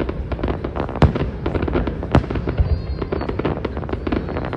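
Aerial fireworks display: dense crackling bursts, with two louder bangs about a second apart.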